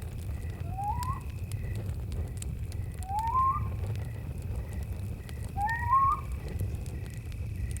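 Campfire crackling over a low rumble, with crickets chirping in an even, steady rhythm. Three rising whistled calls, each about half a second long, come roughly every two and a half seconds, the later two the loudest.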